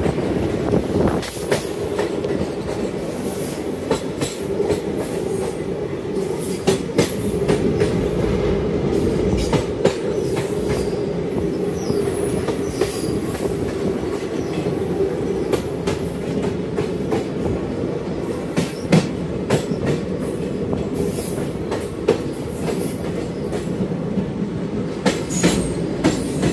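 Moving Indian Railways passenger train: a steady rumble of the running gear, with irregular sharp clacks of the wheels passing over rail joints.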